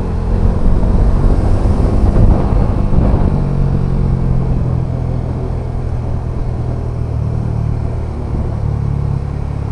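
Bajaj Dominar 400's single-cylinder engine running while riding, with wind and road rumble. It is loudest for the first three seconds or so, then settles to a steadier cruise.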